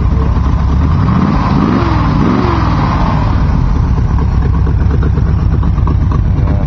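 Small-block Chevrolet 350 V8 idling steadily, blipped up in revs twice about one and a half to two and a half seconds in, then settling back to idle.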